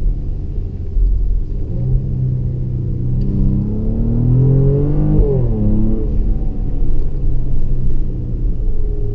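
Mercedes-AMG GLE 43's twin-turbo V6 heard from inside the cabin, pulling with its note climbing steadily for about three seconds, then dropping sharply in pitch about five seconds in before settling back to a steady low rumble.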